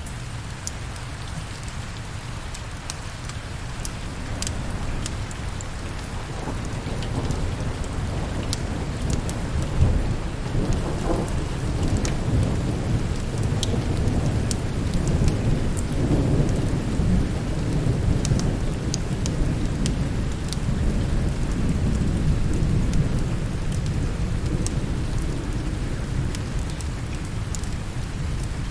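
Steady rain with a long, low roll of thunder that builds a few seconds in, stays strong through the middle and slowly fades near the end. Scattered sharp ticks sound over the rain throughout.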